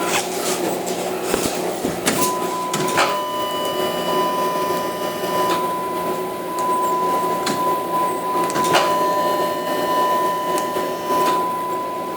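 Ignition key being cycled on and off in a 2007 Chrysler 300 that won't crank: sharp clicks from the key and relays, two of them followed by a whine of a few seconds, over a steady high electronic tone. No cranking and no engine run.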